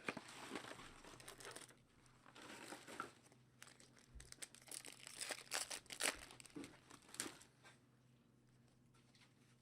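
Trading card pack wrapper being torn open, crinkling and crackling in faint bursts, busiest about five to seven seconds in, then quieter handling of the cards.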